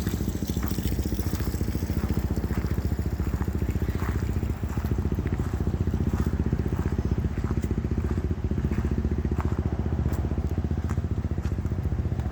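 A steady, low, rapidly pulsing motor-like drone with no change in pitch, with scattered faint crunches like footsteps on gravel.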